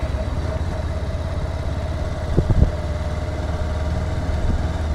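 Motorcycle engine idling steadily, with two short knocks about two and a half seconds in.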